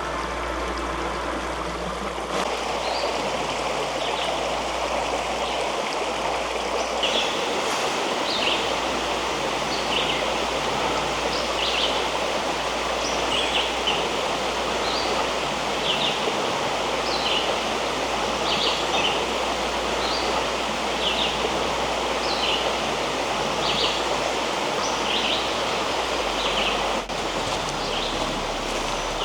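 Rocky creek water rushing steadily. From about seven seconds in, short high chirps repeat roughly once a second over it.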